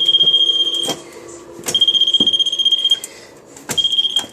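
A moisture meter's high, steady alarm beep, sounding three times for about a second each as its probe meets wet material, with a few sharp clicks and taps between.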